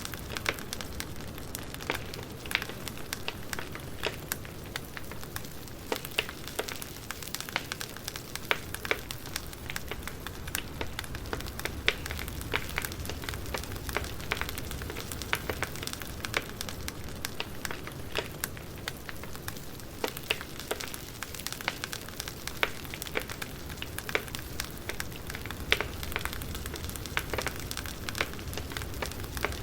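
Wood fire crackling: a steady low rumble and hiss with frequent irregular sharp pops and snaps from burning logs.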